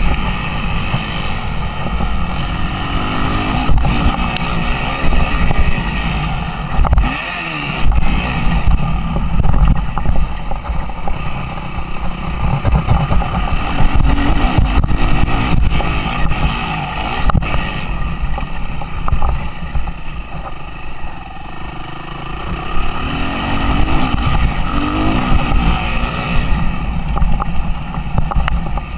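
Suzuki RM-Z 250 four-stroke single-cylinder motocross engine, heard up close from an onboard camera, revving up and down again and again as the throttle is worked around the track. The throttle briefly closes about seven seconds in, then the engine picks up again.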